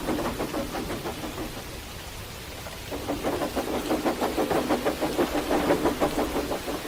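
Steam locomotive chuffing in a fast, even rhythm. The chuffs fade about a second and a half in and come back strongly about three seconds in.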